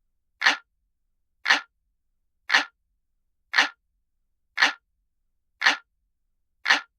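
Looped analog-clock ticking sound: one sharp tick about once a second, evenly spaced, with silence between ticks.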